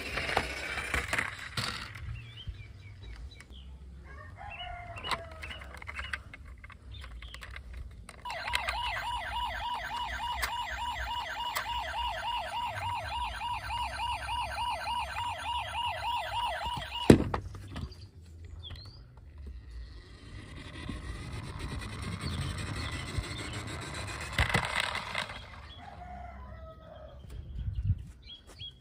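A toy car's electronic siren sounding in a fast, evenly repeating warble for about nine seconds, then cutting off suddenly with a click. Quieter scattered noises come before and after it.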